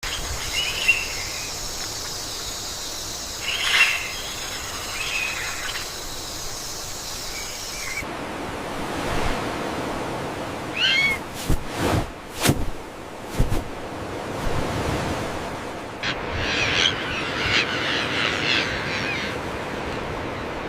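Rainforest ambience: scattered bird chirps and calls over a steady background hiss, which changes abruptly about a third of the way in. A few sharp clicks come midway, and a dense burst of chirping follows near the end.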